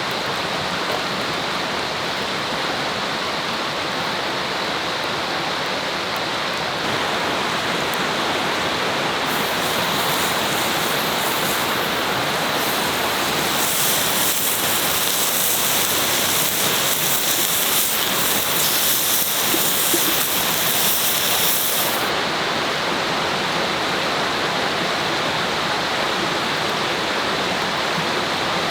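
River water flowing with a steady rush. From about nine seconds in until about twenty-two seconds, a brighter hiss joins it, then drops away.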